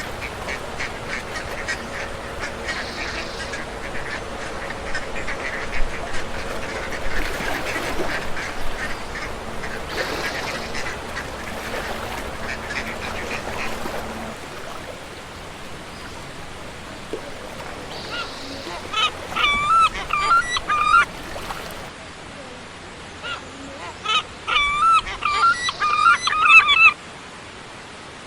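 A flock of waterfowl calling: a dense chorus of quacks and honks, then, after a quieter stretch, two runs of clear, wavering honking calls near the end.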